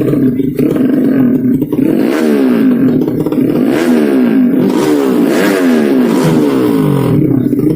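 A 200cc underbone drag-race motorcycle's horizontal-cylinder engine running, then revving up and down several times from about two seconds in to near the end.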